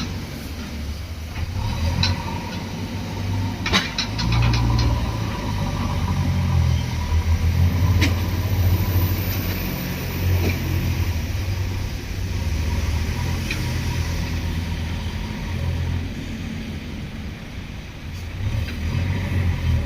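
Diesel engines of backhoe loaders and a tipper truck running while loading, the rumble swelling and easing as the throttle changes. A few sharp metallic knocks come through, a quick cluster of them about four seconds in.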